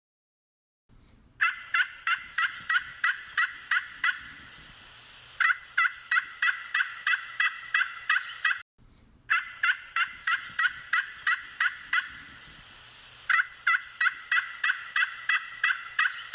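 A bird calling in fast runs of sharp notes, about four or five a second, in bouts of a few seconds. The call breaks off about halfway through and the same passage starts again.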